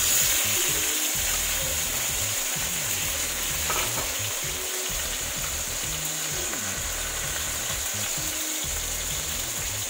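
Sliced fresh tomatoes tipped into a hot stainless steel pan, sizzling. The sizzle starts suddenly as they land and stays steady, easing only slightly.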